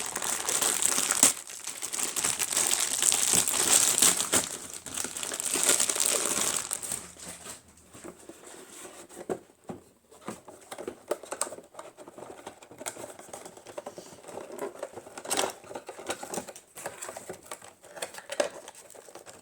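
Packaging crinkling as a boxed reed diffuser set is unwrapped by hand, dense for the first several seconds, then quieter scattered rustles and small handling clicks.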